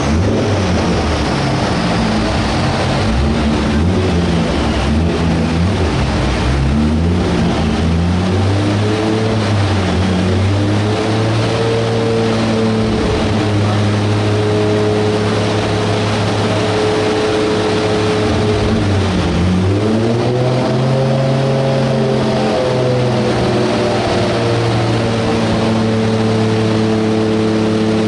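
Car engine running on a chassis dyno, held at steady speeds: its pitch climbs a few seconds in and holds, dips briefly, climbs again and holds, over the steady loud rush of the dyno's large cooling fan.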